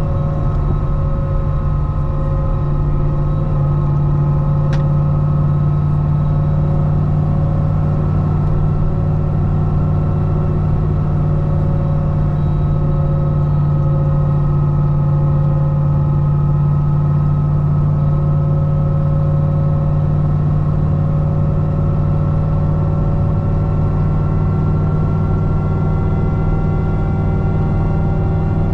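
C6 Corvette ZR1's supercharged V8, fitted with a Kong 2650 supercharger, running at a steady highway cruise. It gives a constant low drone with steady, unchanging tones and no revving. There is one faint tick about five seconds in.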